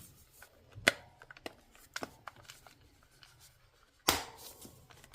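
Plastic hair dryer housing being handled and fitted together: a sharp click about a second in and another about four seconds in, with a few light taps between.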